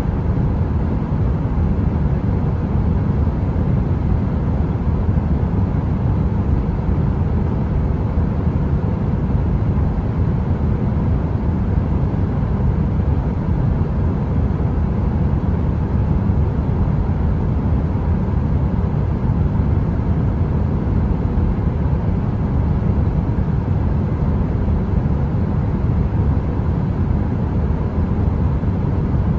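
Electric heater running with a steady, deep rumbling rush of noise and a faint constant hum, unchanging throughout and without any crackle.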